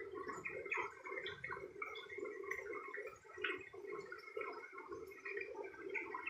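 Water gurgling and trickling steadily, with many small irregular splashy blips over a continuous bubbling flow.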